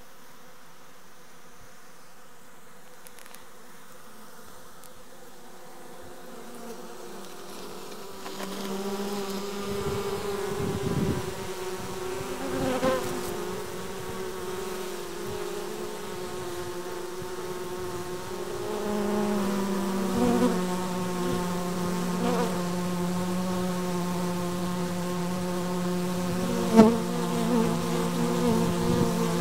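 Honeybee colony buzzing inside a Japanese-style hive: a steady hum with overtones that grows louder about a quarter of the way in. There is a single sharp tap near the end.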